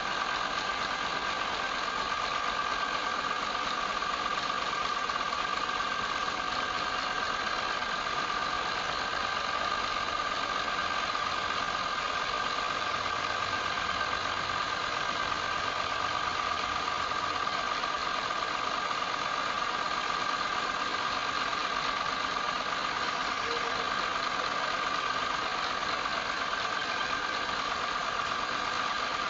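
Wood lathe running steadily, its motor giving a constant whine over a steady hiss.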